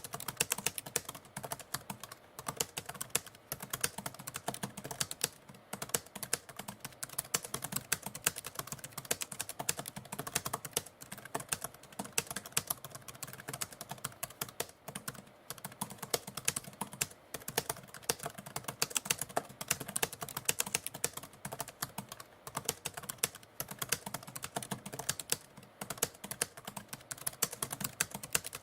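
Typewriter keys being struck in a steady, fast stream of clicks.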